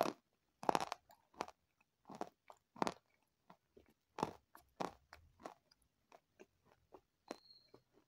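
Close-miked chewing of a crunchy mouthful: a string of crisp crunches, about one to two a second, loudest at the start and growing fainter and sparser toward the end.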